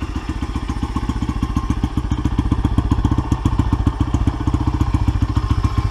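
2002 Honda XR80's small single-cylinder four-stroke engine running steadily at a constant, even putter, sounding healthy and smooth.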